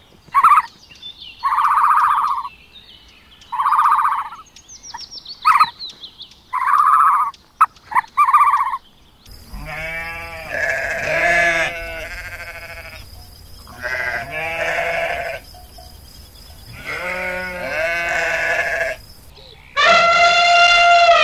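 Sheep bleating: first a run of short, high bleats, then longer, lower, wavering bleats, ending with one loud call near the end.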